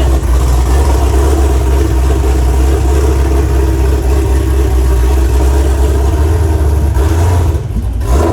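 Mk8 Volkswagen Golf GTI's turbocharged 2.0-litre four-cylinder running through its aftermarket Xforce cat-back exhaust and catted Milltek downpipe: a steady low exhaust rumble, dipping briefly near the end.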